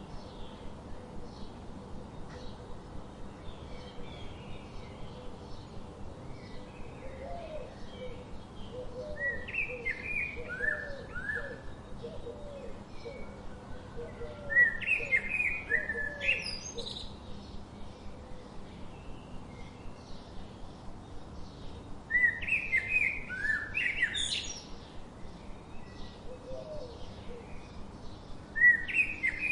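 Wild songbirds singing: four bursts of quick chirping notes, several of them ending in a high upward sweep. A softer run of short lower notes sounds in the first half, over faint steady background chipping.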